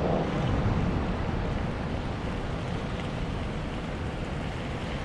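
Strong wind buffeting the action camera's microphone: a steady low rumble with a rushing hiss above it.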